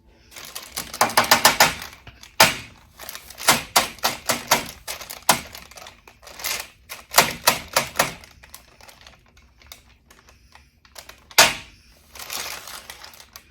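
Quick runs of sharp taps and clicks: a metal tablespoon knocking and scraping against a pan while packing minced garlic and working it out. A fast rattling run of taps comes about a second in, with scattered clusters of knocks after it.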